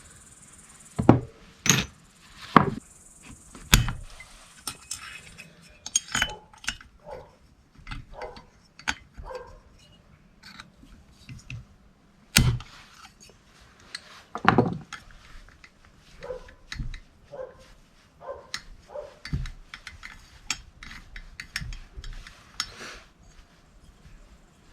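Irregular clinks, clicks and knocks of small metal chainsaw parts and hand tools being handled during disassembly, with a few short squeaks.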